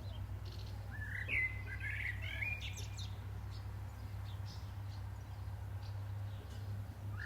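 A songbird singing a short phrase of quick, wavering notes about a second in, with another phrase starting near the end, over a steady low hum.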